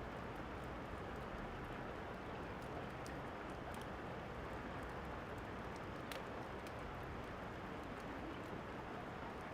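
Steady rain, a soft even hiss, with a few faint crackles of a wood fire now and then.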